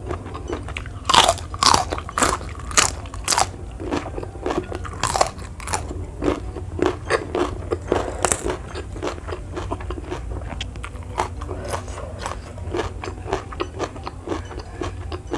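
Close-miked crunching bites into raw vegetables, then chewing: several loud, sharp crunches in the first few seconds and another about eight seconds in, followed by softer, steady chewing.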